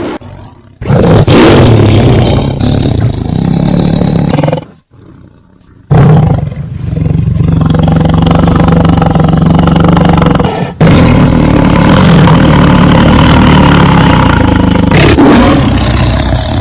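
Tiger roaring: three long, very loud, deep roars, the first stopping about four and a half seconds in, the other two following almost back to back after a short lull.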